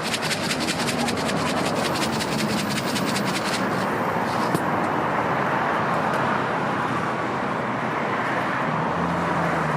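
Steady outdoor street noise, a constant rumble of traffic and city hubbub. A fast run of even ticking sounds over it and stops a few seconds in.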